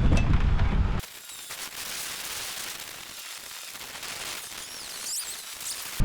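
Strong wind buffeting the microphone with a loud low rumble, which cuts off abruptly about a second in to a much quieter hiss of fast, fine crackling ticks; the wind rumble cuts back in near the end.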